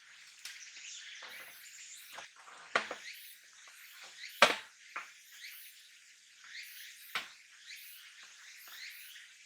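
Scattered sharp clicks and knocks, the loudest about four and a half seconds in, over a steady faint high hiss.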